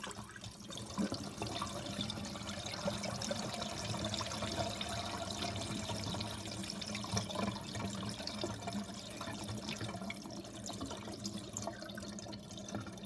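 Miniature Eldro Silenta toilet being flushed with water poured in from a watering can: a steady rush of running water through the small bowl that fades near the end.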